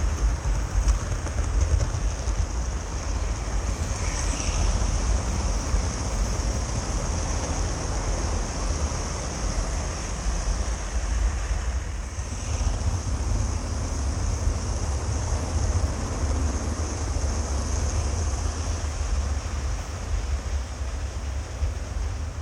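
OO gauge model trains running on the track close by, a steady low rumble with a constant high hiss; just afterwards it is called pretty good diesel noise.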